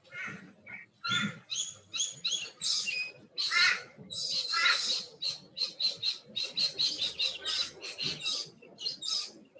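A bird calling in a series of loud, sharp, high notes that speed up into a fast run of about four or five notes a second in the second half.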